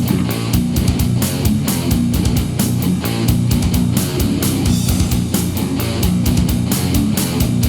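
Instrumental death metal: distorted electric guitars riffing over drums, with no vocals. The drums hit at a steady, fast pace throughout.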